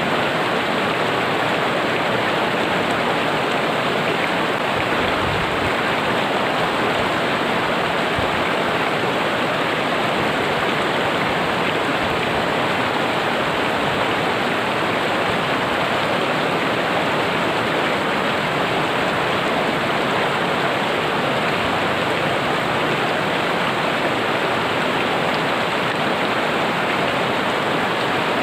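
River water rushing steadily over rocks, a loud, even roar of flowing water with no breaks.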